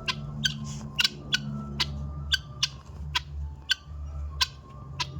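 Guinea fowl giving short, harsh calls, about a dozen at irregular spacing, over a steady low hum.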